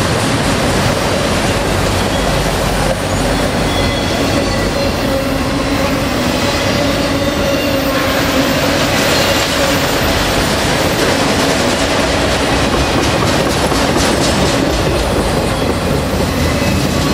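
Train passing close by, its cars rolling past with wheels clacking over rail joints and a steady wheel squeal.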